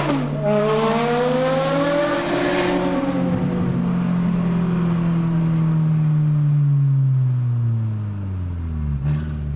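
Porsche Carrera GT's V10 engine accelerating, its revs climbing for the first two to three seconds and then falling steadily as the car eases off. Heard from inside a following car.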